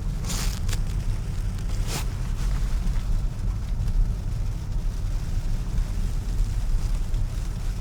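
Steady low rumble of tyres on a snow-covered road, heard inside an electric car's cabin. A few brief hissing swishes come in the first two seconds.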